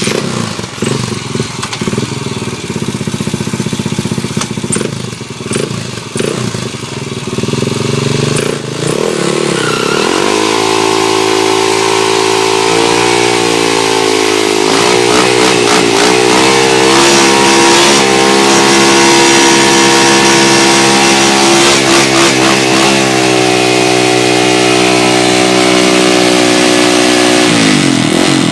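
Yamaha SR single-cylinder four-stroke motorcycle engine being run through its exhaust muffler in a throttle test. For about ten seconds it runs unevenly with throttle blips. It is then held at raised revs steadily, with a few brief rises, and drops back near the end.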